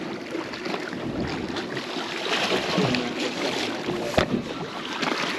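Wind on the microphone and water around a small boat at sea, with scattered small knocks and rattles of tackle being handled and one sharper click about four seconds in.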